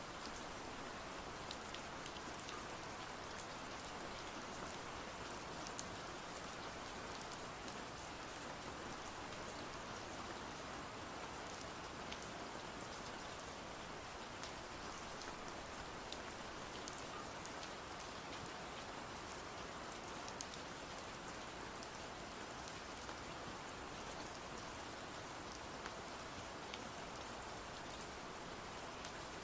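Steady rain falling on a surface, an even hiss with scattered sharp little ticks throughout.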